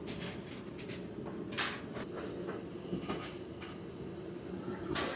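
Scattered light knocks and clicks of objects being handled, about one a second, over a steady low rumble.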